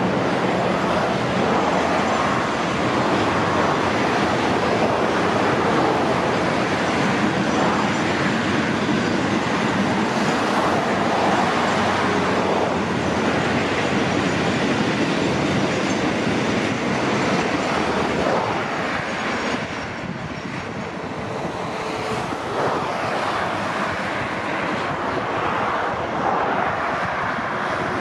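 Freight train of container flatcars rolling past: a steady noise of steel wheels on the rails, easing off a little for a few seconds about two-thirds of the way through.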